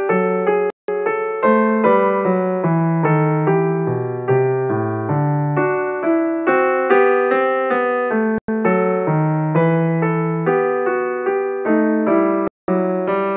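Background piano music, a steady run of single struck notes with chords beneath, broken by three very brief silences.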